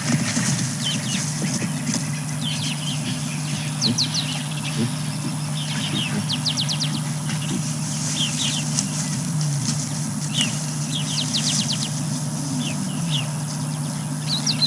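Morning birdsong: many short chirps and quick runs of repeated high notes from several birds, over a steady low hum.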